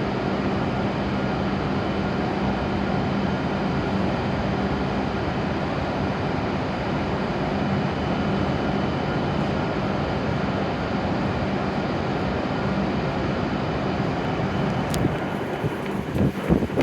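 W7-series Shinkansen train standing at the platform, its onboard equipment giving a steady hum and rush. A sharp click comes about 15 seconds in, and uneven louder sounds start in the last second.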